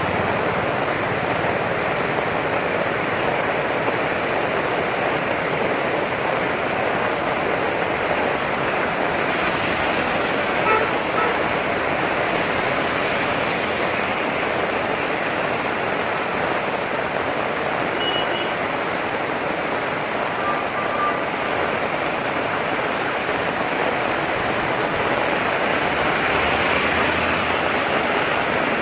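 Heavy rain falling steadily, a constant hiss with no letup. A few faint short tones sound briefly, about a third of the way in and again past halfway.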